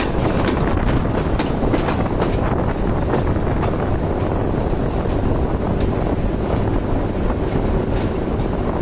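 Running noise of a moving passenger train heard from outside the coach, with wind rushing over the microphone and irregular sharp clicks and knocks from the wheels on the track.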